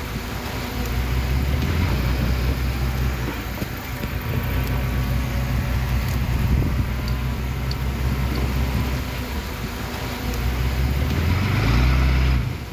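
Diesel engine of heavy earthmoving machinery running under load, its low drone rising and falling. Near the end it revs up louder and then drops away suddenly.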